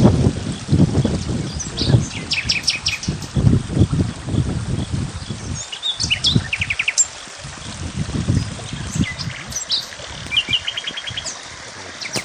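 Small birds chirping and singing, with quick trills of rapidly repeated notes about halfway through and again near the end. Irregular low thuds and rumbling run underneath, strongest in the first half.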